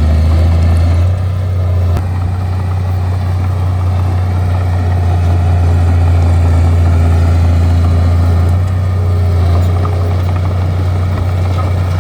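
Bulldozer's diesel engine running with a steady low drone, dipping slightly in loudness a couple of times.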